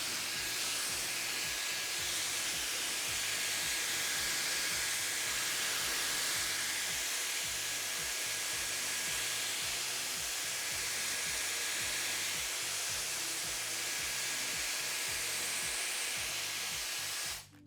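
M Ionic hair dryer with its high-speed motor running: a steady rush of blown air with a thin, even whine, cutting off just before the end. A faint music beat plays underneath.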